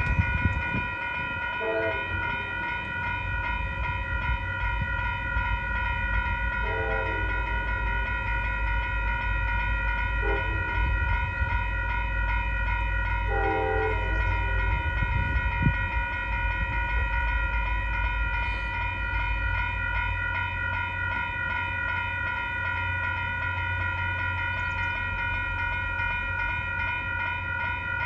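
Railroad crossing bell ringing steadily while a train rumbles past, its horn sounding faintly four times: two long, one short, one long, the grade-crossing signal.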